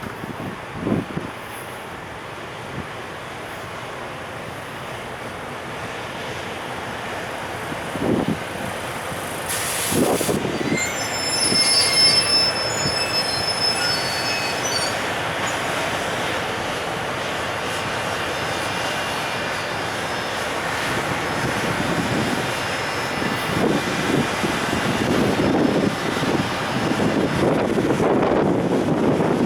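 Container freight train hauled by an EF510 electric locomotive pulling away from the station. Its wheels squeal in short high tones about ten seconds in, and then the rumble and rhythmic clatter of its wagons' wheels grow louder as it passes.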